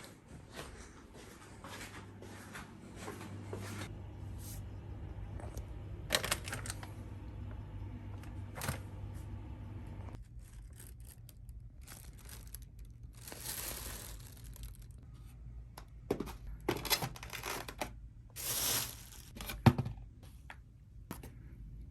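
Rustling, tearing and handling noises in a small room, with scattered sharp clicks that come thicker in the last few seconds, over a steady low hum that fades after about ten seconds.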